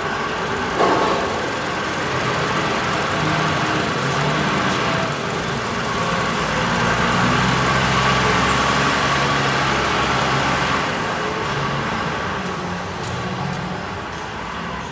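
Toyota RAV4's 2.4-litre inline-four engine (2AZ-FE), with 168,664 km on it, running steadily. A single sharp knock is heard about a second in.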